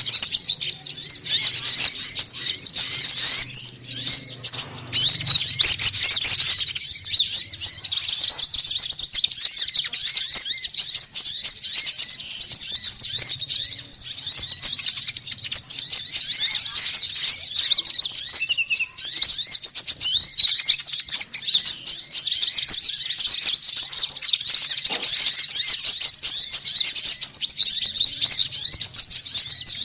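Several small birds chattering excitedly in a dense, unbroken stream of rapid high chirps: a recorded bird-lure call used to draw small birds in.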